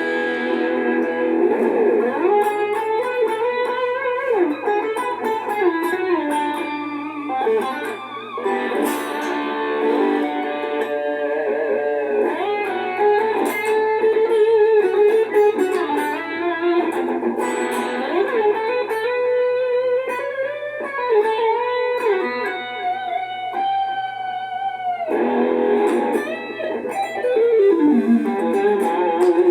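Tagima Arrow 2 electric guitar playing a lead line of single notes with string bends and vibrato. Near the end a long note held with vibrato stops abruptly, then the playing picks up again.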